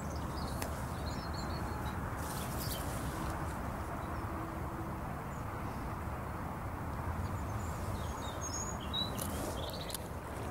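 Small birds giving a few short chirps, about a second in and again near the end, over a steady rush of flowing river water.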